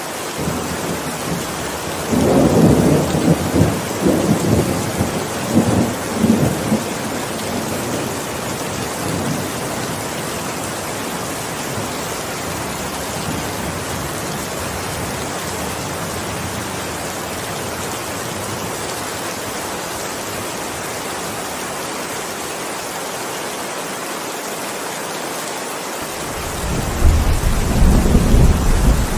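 Steady heavy rain with two peals of thunder. The first rolls in about two seconds in and rumbles on in waves for several seconds. The second, deeper and louder, starts near the end.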